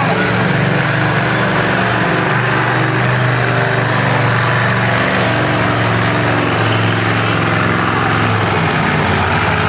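Truck engine running loud and steady, with no change in pitch.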